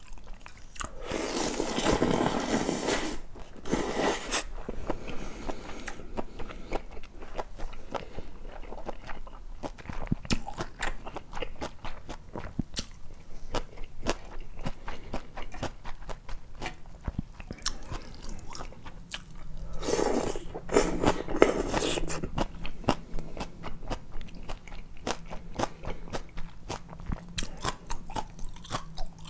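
Close-miked chewing and crunching of cold noodles with young radish kimchi, a dense run of small wet clicks and crunches, with longer, louder slurping or sucking noises about a second in and again about twenty seconds in.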